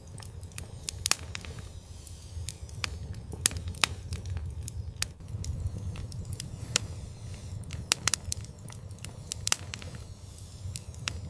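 Fireplace fire crackling: sharp, irregular pops and snaps over a steady low rumble of the flames.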